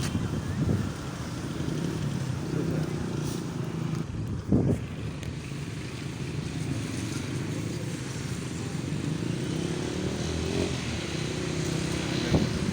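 Street traffic, mostly motorcycle engines running steadily, with a brief loud thump about four and a half seconds in.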